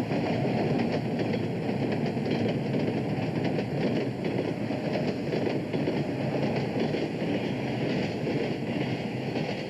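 A train running past, a steady noise of wheels on rails with a fast, even rattle throughout.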